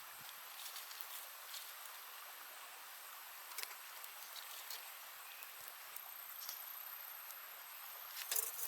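Steady high-pitched insect buzz over faint forest ambience, with scattered light clicks and rustles and a louder cluster of clicks near the end.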